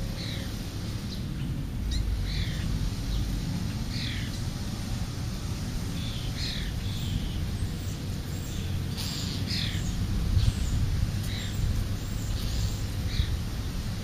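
A bird calling in short, falling chirps, about one a second at an uneven pace, over a steady low outdoor rumble.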